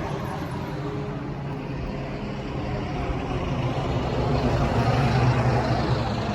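A road vehicle passing by: a steady engine-and-tyre rumble that swells to its loudest about five seconds in, then starts to fade.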